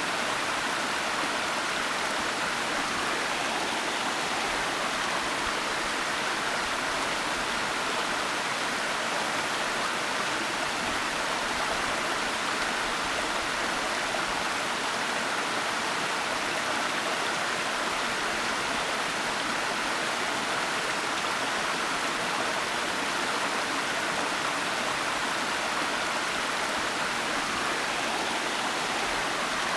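Waterfall, a steady rush of falling water with no breaks or changes.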